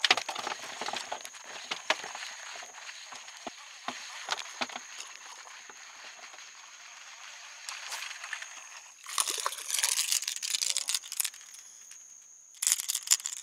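Small splashes and clicks on the water, then about two seconds of loud splashing about nine seconds in and a shorter burst near the end: a hooked speckled trout thrashing at the surface as it is brought to the kayak.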